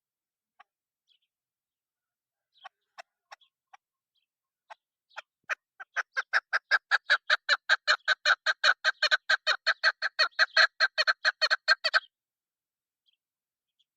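Female chukar partridge calling: a few scattered single clucks, then a fast run of clipped clucking notes, about five a second, that builds up and stops abruptly after about six seconds.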